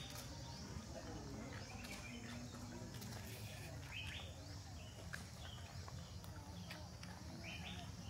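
Short, sharp bird chirps repeating every second or two over a low steady background.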